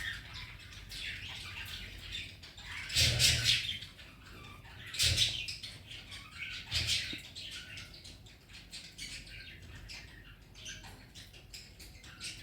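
Pet lorikeet making short chirps and chattering calls, with louder, noisier bursts about three, five and seven seconds in.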